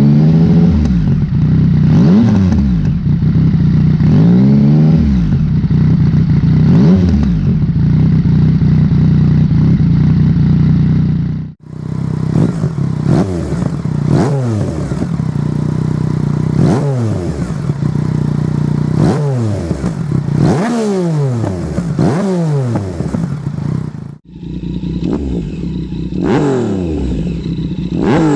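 Yamaha XSR900's 890cc three-cylinder engine heard through different exhaust systems, revved in repeated blips from idle, each rising in pitch and falling back. There are three separate recordings, with a cut to a new one about a third of the way in and again near the end.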